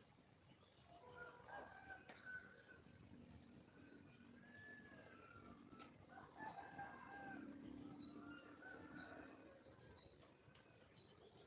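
Wild junglefowl calling faintly, a few arched, fowl-like calls in two clusters, with small birds chirping high in the background.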